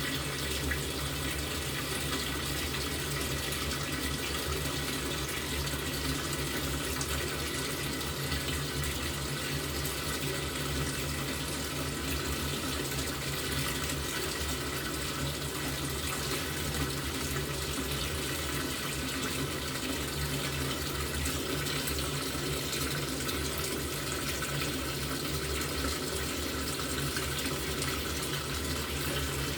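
LG top-loading washing machine filling with water: a steady rush of water pouring into the tub through the inlet, with a low hum underneath.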